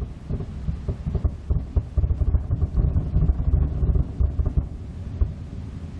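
Fireworks going off outside, heard from indoors: a rapid, dense crackle of low pops like popcorn popping. It is thickest in the middle and thins out near the end.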